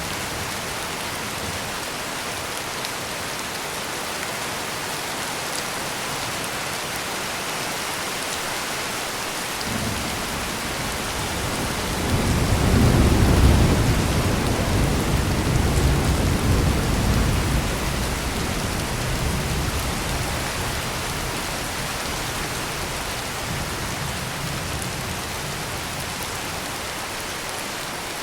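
Heavy rain pouring steadily, with a long deep roll of thunder that swells about ten seconds in, peaks a few seconds later and rumbles away over several seconds.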